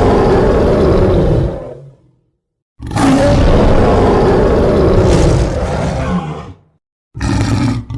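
Loud roar sound effects played one after another with short silences between: one fading out near two seconds in, a longer one of nearly four seconds from about three seconds, and a short one near the end.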